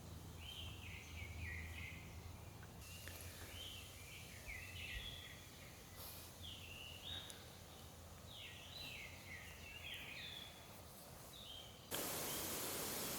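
Songbird singing repeated phrases of short, falling whistled notes over faint forest ambience. About twelve seconds in, the sound cuts abruptly to a louder, steady hiss.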